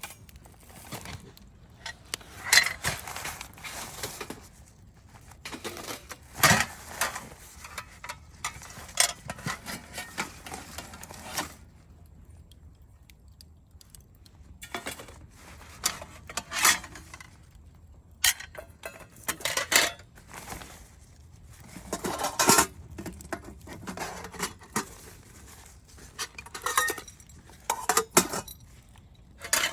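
Metal cookware and utensils clinking and clattering in irregular bursts, with short quiet gaps between handlings.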